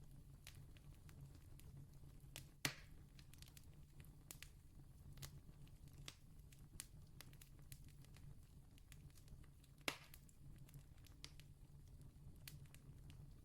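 Faint campfire crackling: scattered small pops and snaps, with two louder pops, one about two and a half seconds in and one near ten seconds, over a low steady rumble.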